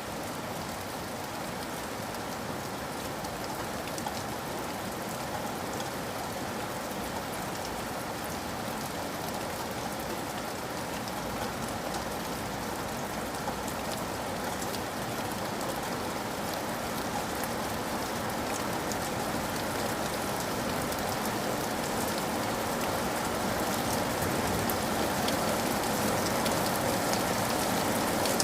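Steady rain falling, with scattered drop ticks, growing gradually louder toward the end.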